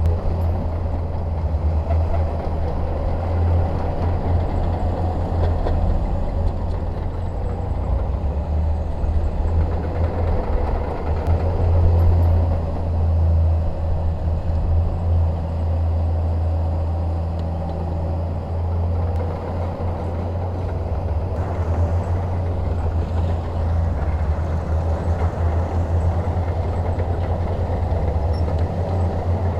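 Shantui DH17 crawler bulldozer's diesel engine running steadily under load, a deep low drone that swells a little about twelve seconds in.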